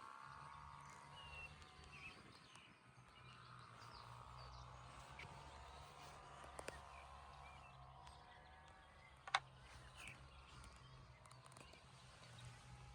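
Near silence: faint outdoor background with a low steady hum and a few faint chirps, and one sharp click about nine seconds in.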